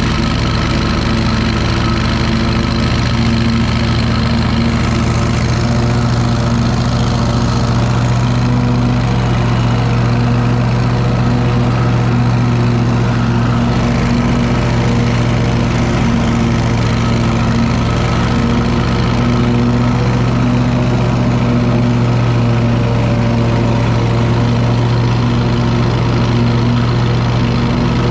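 Riding lawn mower engine running at a steady speed, its pitch even throughout.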